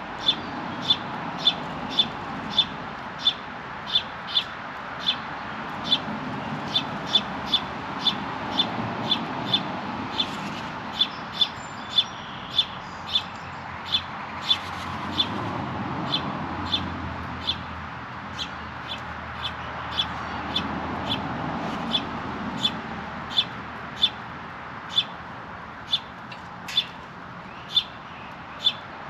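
A small bird chirping the same short, high note over and over, a little more than once a second, over steady background noise.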